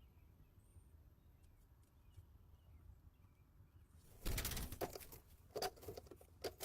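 A bird's wings flapping and rustling at the nest, in a loud burst about four seconds in and shorter bursts near the end, after a faint start.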